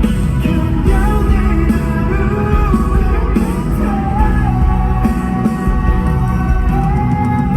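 Live concert music heard from the audience through a phone: a male solo vocalist singing held, sliding notes over loud band and backing music with a heavy low end.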